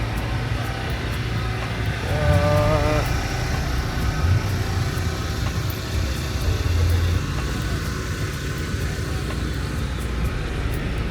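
Car engines running, a continuous low rumble under a background haze, with a brief wavering pitched sound about two seconds in.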